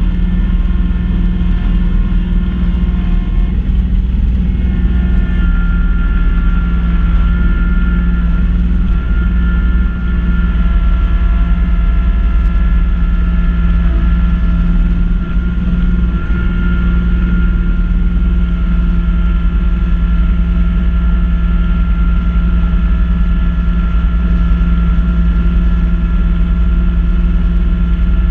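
Kubota B2650 compact tractor's three-cylinder diesel running steadily while driving a front-mount snow blower. A high steady whine joins the engine drone about five seconds in and holds.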